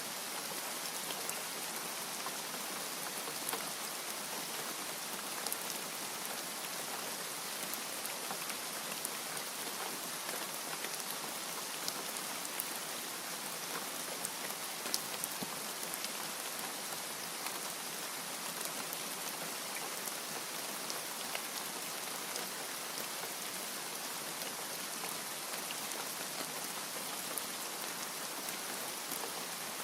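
Steady rain falling, a continuous hiss with many small scattered drop ticks and no thunder.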